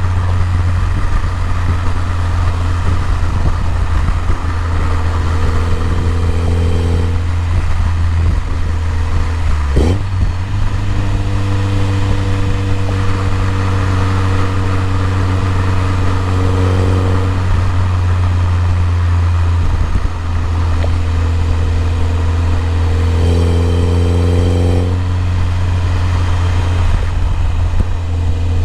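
BMW E30 M3's S14 four-cylinder engine running at a steady speed: a constant low drone with overtones that come and go, and a brief falling sweep about ten seconds in.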